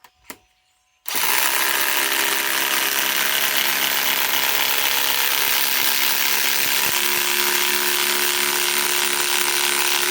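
Ryobi PSBIW25 compact impact wrench hammering steadily as it drives a 6-inch by 1/2-inch lag screw into wood. It starts about a second in and keeps impacting without a break.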